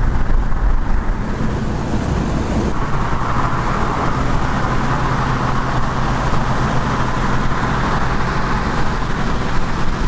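Classic muscle car on the highway at a steady cruise: the engine hums evenly under tyre and wind noise, which grows a little about three seconds in.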